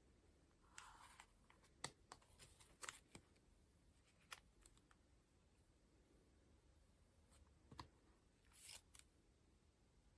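Faint paper handling as the pages of a collage notebook are turned: two brief soft swishes, one about a second in and one near the end, among scattered light taps and clicks.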